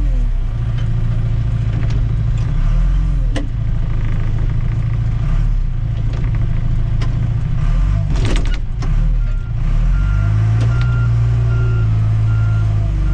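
Tractor-loader-backhoe's diesel engine running under load, its revs rising and falling, with a few sharp knocks. In the last few seconds a backup alarm beeps steadily, about one and a half beeps a second.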